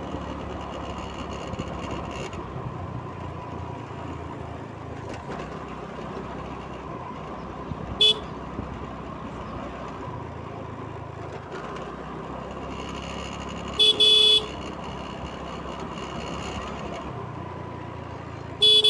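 Vehicle horn honking in short blasts: once about eight seconds in, a quick double honk around fourteen seconds, and again at the end. Steady traffic or engine noise runs underneath.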